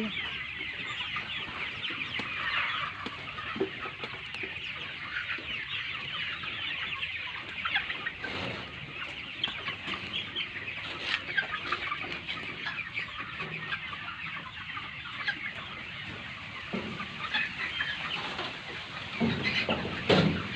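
A large flock of chickens clucking all at once: a dense, steady chatter of many short overlapping calls.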